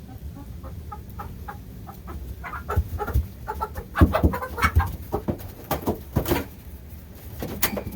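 Young chickens clucking, with a run of short knocks and rustles from about two and a half seconds in; the loudest knock comes about four seconds in.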